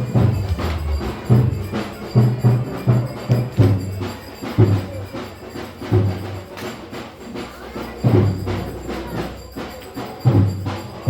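Turkish folk dance tune (oyun havası) carried by deep, strongly accented drum beats in an uneven rhythm, with a fainter melody above.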